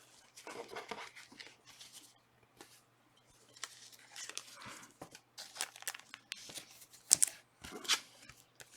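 Trading card pack wrappers being torn open and crinkled, in irregular rustling bursts with two sharper tears near the end.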